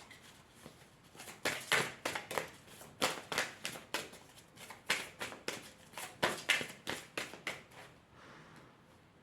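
Tarot cards being shuffled and handled: irregular bursts of quick, crisp card slaps and rustles, repeated several times, going quieter near the end.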